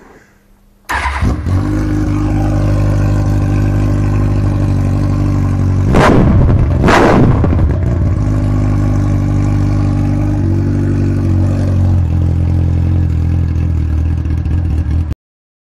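2007 Kawasaki ZX-10R's inline-four engine running loud through a fairly open pipe with no catalytic converter or silencer. It comes in suddenly about a second in, idles steadily, is blipped twice in quick succession around the middle, and stops abruptly near the end.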